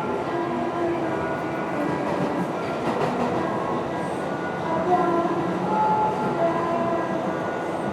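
Amtrak passenger train running, a steady noise of the train in motion with faint short tones scattered through it.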